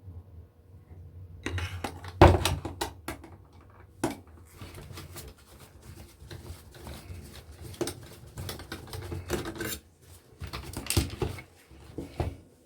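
Irregular metallic clicks, clinks and knocks of hand tools working against the metal parts of an electronic unit while it is being unscrewed and taken apart. The loudest knock comes about two seconds in, over a low steady hum.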